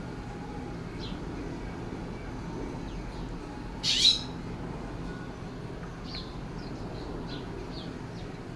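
Birds calling: one loud, short, harsh call about four seconds in, then a few faint short chirps, over a steady low hum.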